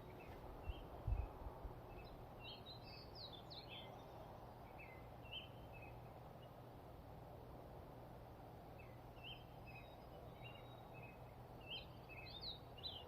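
Small birds chirping repeatedly in short, quick notes over a faint steady background noise, with a single low knock about a second in.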